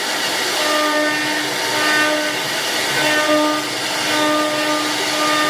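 A machine running: a steady hiss with a constant-pitched whine that cuts in and out, on for about two seconds, then off, then on again through the rest.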